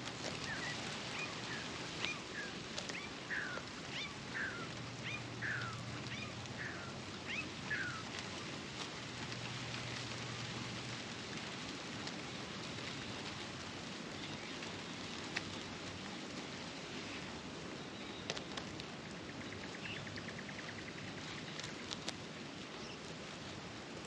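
A bird calling a string of about ten short, downward-sliding chirps roughly two-thirds of a second apart, then falling quiet, with a brief rapid trill near the end. Under it runs a steady hiss with scattered clicks.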